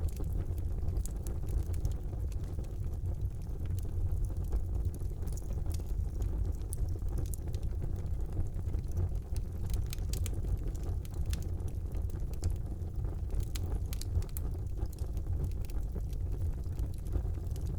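Wood fire burning in a fireplace: a steady low roar of the flames with scattered small crackles and pops.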